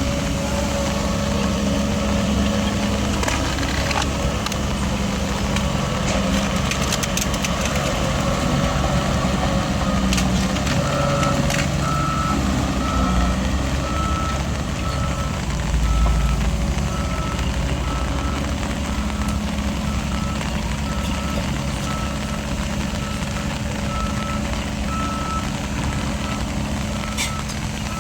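Heavy diesel earthmoving machinery running steadily under load, with a few metallic clanks. From partway in, a reverse alarm beeps at an even rate, about once a second: a machine backing up.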